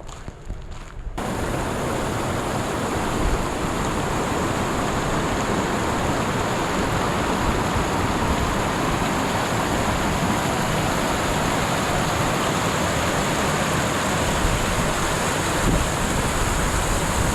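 Rushing water of a mountain creek or waterfall, a loud, steady roar that starts abruptly about a second in.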